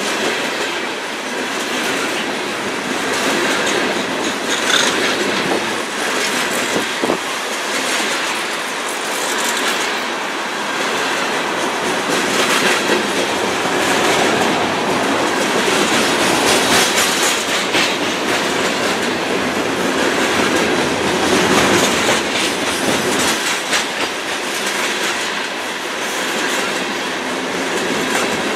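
Loaded coal hopper cars of a freight train rolling past, their steel wheels clicking over rail joints amid a steady rumble and rattle.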